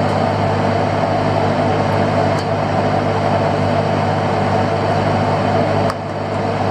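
Fishing boat's engine running steadily with an even, droning hum, and a sharp click about six seconds in.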